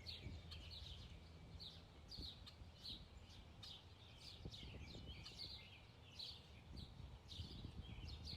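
Faint birdsong: small birds giving short, high chirps, one or two a second, over a faint low rumble.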